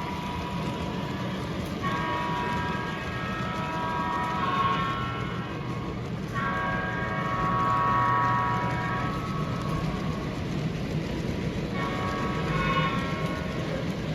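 Model train running on its track with a steady rumble, its horn blowing three long blasts.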